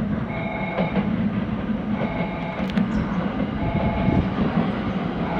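Train standing at a station platform with a steady mechanical hum, while a short electronic chime repeats about every second and three-quarters.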